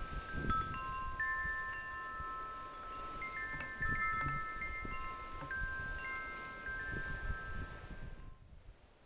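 Wind chimes ringing: clear tones struck one after another at different moments, each held and overlapping the others, over a low rumble. Everything cuts off abruptly about eight seconds in.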